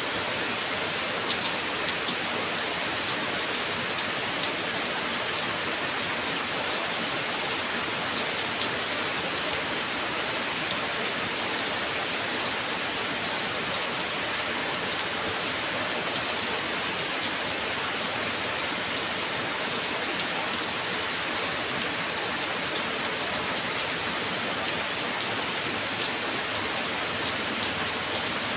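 Heavy rain falling steadily, a dense hiss of drops with fine patters on a hard surface, without breaks or swells.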